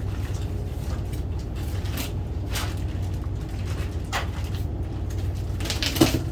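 A few scattered knocks and clicks of hand tools and door parts being handled, the loudest near the end, over a steady low hum.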